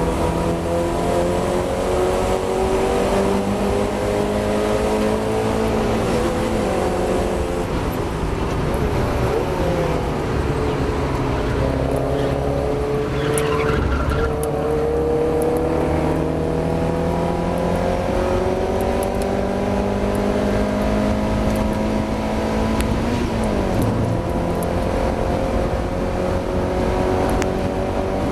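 Mazda MX-5 race car's four-cylinder engine under hard acceleration, its pitch climbing slowly through the gears. The revs drop sharply at an upshift about six seconds in and again near the end, and dip and recover around ten seconds in.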